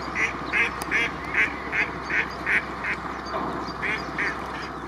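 A bird calling in a quick, regular series of short calls, about two and a half a second, breaking off about three seconds in, then two more calls near the end.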